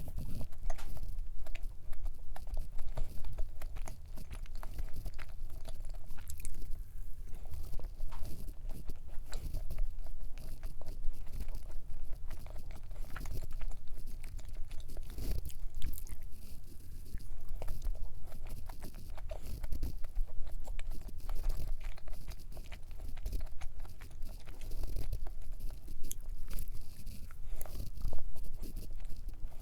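Close-miked chewing and crunching while eating a dense cream-cheese cup cookie: irregular crisp bites and mouth sounds throughout.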